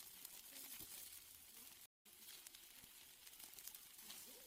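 Faint sizzling and crackling of steaks cooking on a grill, with a brief total dropout about two seconds in.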